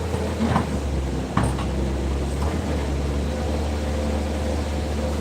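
Diesel engine of heavy construction machinery running with a steady low drone, with a few short knocks in the first few seconds, the loudest about one and a half seconds in.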